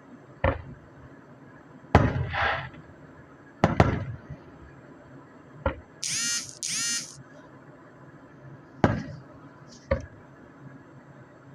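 Fireworks display: about six separate booming bursts spread out, one followed by crackling, and two short high-pitched whistles about six seconds in.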